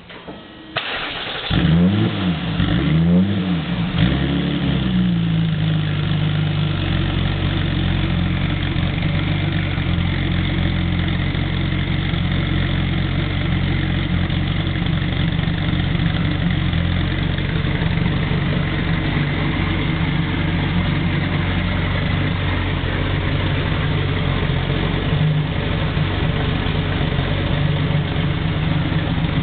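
Air-cooled Porsche 993-generation flat-six with an aftermarket exhaust starting about a second in. The revs flare up and down a few times, then settle into a steady idle.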